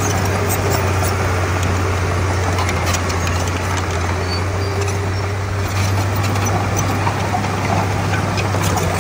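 Komatsu D31P crawler bulldozer's diesel engine running steadily with a low drone, with faint scattered metallic clicks over it.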